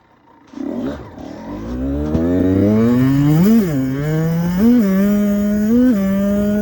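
Dirt bike engine pulling away: its pitch climbs steadily for about three seconds, then holds at a steady speed with four brief throttle blips.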